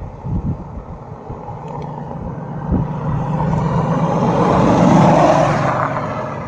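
A motor vehicle driving past, its engine and tyre noise swelling over a few seconds to a peak about five seconds in, then fading.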